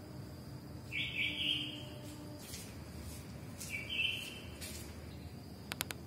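A bird calling twice, the first call about a second long and the second shorter, over a steady thin high whine. A few sharp ticks near the end.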